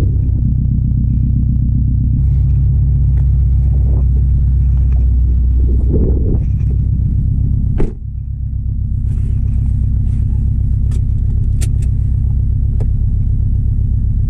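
2016 Subaru WRX STI's turbocharged 2.5-litre flat-four engine running at a steady pitch while driving, a low rumble. About eight seconds in a sharp click comes with a brief dip in level, after which the engine note picks back up and holds steady.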